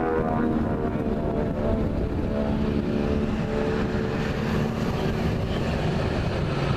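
Propeller aircraft engine droning steadily with a held pitch, over a low rumble.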